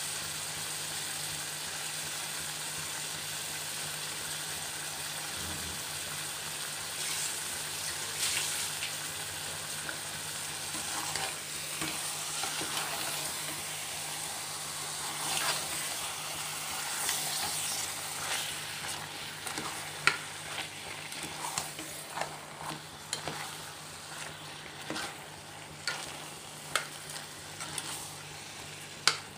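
Chicken pieces sizzling in hot masala in an aluminium pressure-cooker pot, with a spoon stirring and scraping through them. From about two-thirds of the way in, the spoon knocks sharply against the pot several times.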